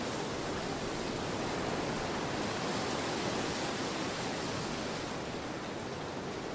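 Autumn storm wind blowing steadily, a dense even rush of noise that softens slightly about five seconds in.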